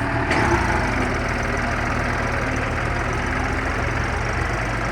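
Massey Ferguson tractor's diesel engine running steadily, with a deep, even rumble.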